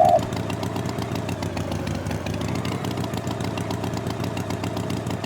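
Engine running steadily at idle, an even low drone with no change in speed, and a brief pitched tone right at the start.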